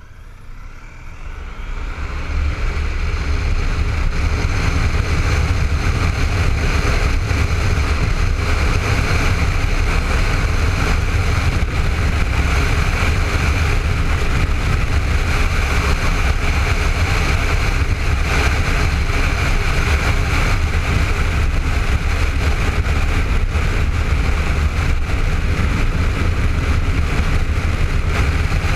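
Honda ST1300 motorcycle under way, its V4 engine and the rush of wind heard through a helmet-mounted camera. The noise builds up over the first two seconds as the bike picks up speed, then holds steady.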